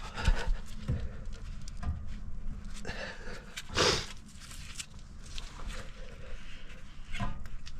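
Front brake caliper of a pickup being worked loose and slid off the rotor: scattered light metal knocks and scrapes, with one louder short rasp a little under four seconds in.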